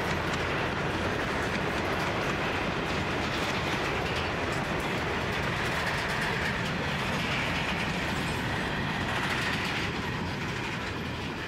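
Grain hopper wagons of a freight train rolling past at speed, steel wheels rumbling and clicking over the rail joints. A faint high squeal rises in the middle, and the noise eases slightly as the last wagons go by.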